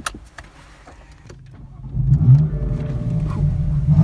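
A few light clicks, then about two seconds in the BMW M4's twin-turbo inline-six starts up with a quick rev flare and settles into a steady idle.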